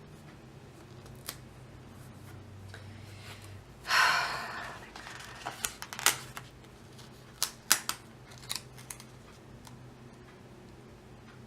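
Washi tape pulled off its roll with a short ripping sound about four seconds in, then a handful of sharp clicks and snips as the strip is handled and cut.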